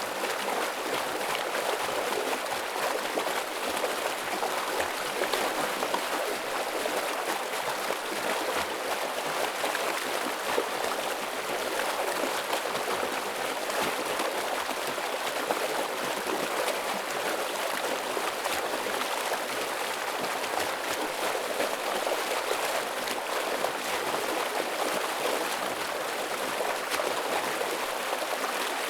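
Heavy, steady flow of a rocky forest stream, rushing and gurgling without a break.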